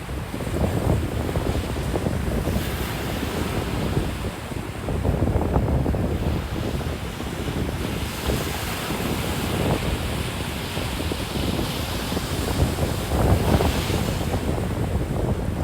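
Ocean surf breaking and washing on a beach, a steady rushing that swells and eases, with wind buffeting the microphone in low rumbling gusts.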